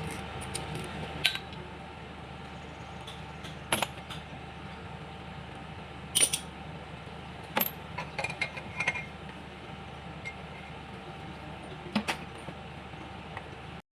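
Scattered sharp metal clinks and taps, about a dozen, as tools and metal parts are handled, over a steady low hum.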